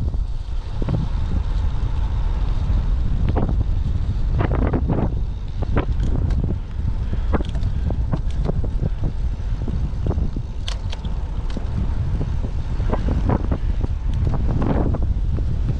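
Typhoon wind buffeting the microphone in a heavy, steady low rumble, with scattered sharp clicks and rattles and a few brief louder gusts.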